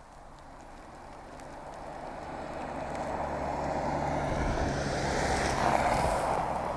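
A vehicle passing by: engine hum and tyre noise swell steadily to their loudest about six seconds in, then begin to fade.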